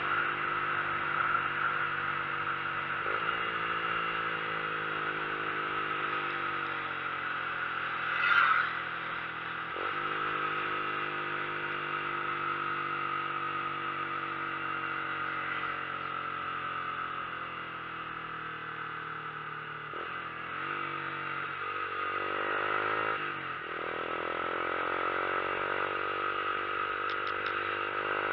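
Vehicle engine pulling uphill. Its pitch climbs and then drops at gear changes, about 3, 10 and 22 seconds in, over a steady rush of wind and road noise, with a brief louder gust about eight seconds in.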